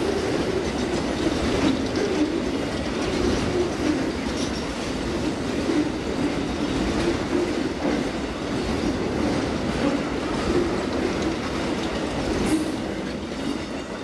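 Amtrak Auto Train autorack cars rolling past, steel wheels running steadily over the rails with a few sharp clicks. The sound begins to fade near the end as the last cars go by.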